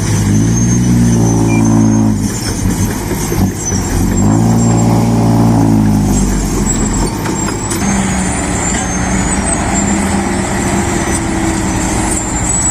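Mitsubishi Fuso dump truck's diesel engine revving up and dropping back twice, then running more steadily under load.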